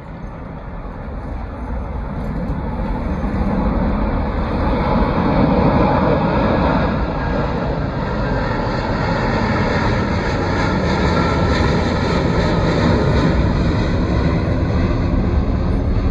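Jet airliner engines running loud, building over the first few seconds and then holding steady.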